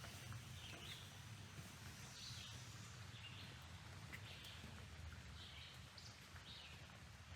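Quiet woodland with a bird giving short high chirps about once a second over a faint low rumble.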